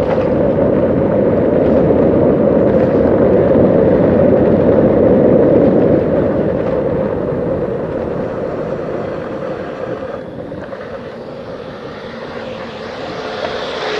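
Wind buffeting a microphone on a moving bicycle: a loud, steady rumble that eases off from about six seconds in, with a higher hiss rising near the end.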